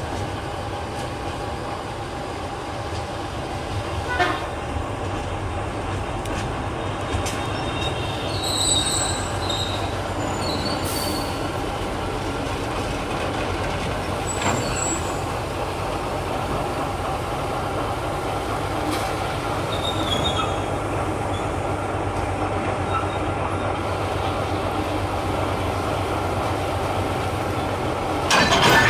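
Diesel locomotive running steadily as train cars move slowly during shunting, with short high-pitched wheel squeals now and then. There is a knock about four seconds in and a louder metallic clatter near the end.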